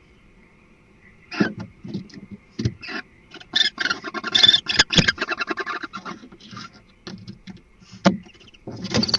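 Barn owl pair in a nest box: a run of rapid chittering calls mixed with sharp clicks and scuffles, typical of a bonding pair. A harsh, noisy hissing call starts near the end.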